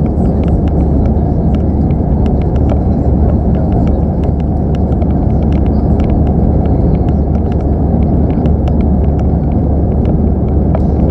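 Airbus A319 passenger cabin in the climb after takeoff: a steady, loud rumble of the jet engines and airflow, with faint scattered clicks over it.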